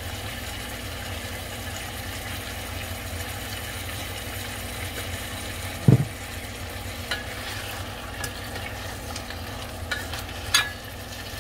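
Fish head pieces with onion and ginger sizzling steadily in a stainless steel pot on an electric coil burner. A single dull knock comes about halfway through, and near the end a metal spoon stirs and clicks against the pot.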